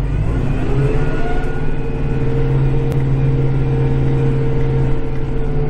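Kubota tractor's diesel engine running steadily under load, heard from inside the cab: a constant drone whose pitch rises a little in the first second and then holds.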